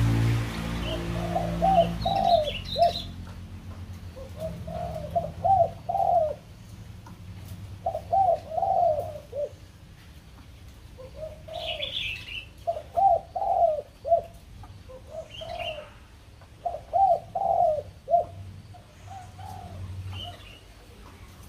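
Caged birds calling: short groups of three or four low, hooked notes repeat every second or two, with a few brief higher chirps between them.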